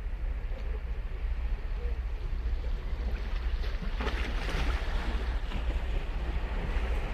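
Ocean surf on a beach: waves rolling in, with one wave breaking and washing up the shore from about three and a half seconds in. A steady low rumble of wind on the microphone runs under it.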